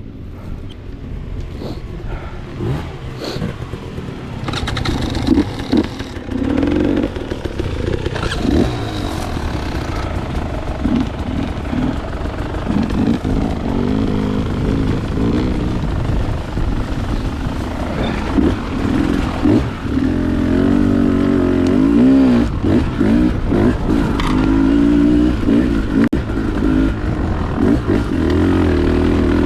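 Dirt bike engine running along a trail, revving up and down so that its pitch rises and falls again and again, with a few short knocks in the first several seconds.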